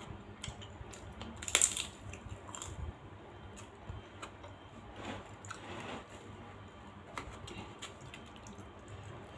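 Close-up eating sounds: wet chewing, with scattered crackly clicks of prawn crackers being bitten and chewed. The loudest is a crackling burst about one and a half seconds in.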